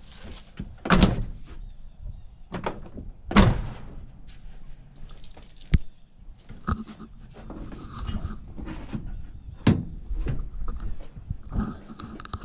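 Metal clunks and rattling as the hood of a 1990 Dodge D150 pickup is released and lifted open: four sharp clunks spread through, with lighter rattles between.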